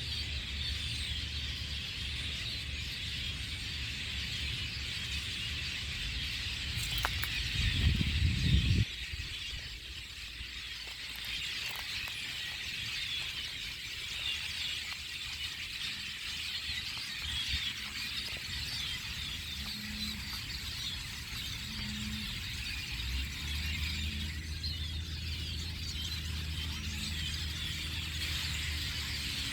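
A dense chorus of many small birds chirping together, without letup. About eight seconds in there is a brief loud low rumble. From a little over twenty seconds in, a steady low hum runs under the chirping.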